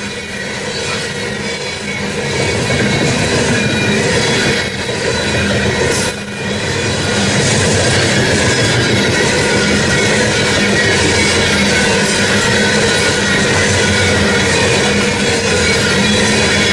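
A loaded coal freight train rolling past, its steel wheels clattering and squealing on the rails, growing louder over the first few seconds and then holding steady.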